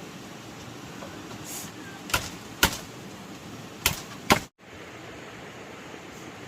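Four sharp knocks in two quick pairs over a steady background hiss.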